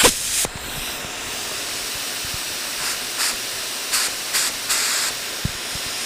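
Compressed air hissing steadily through a paint spray gun as the air pressure is set for clear coat. It comes on abruptly, with several short, louder bursts of hiss partway through.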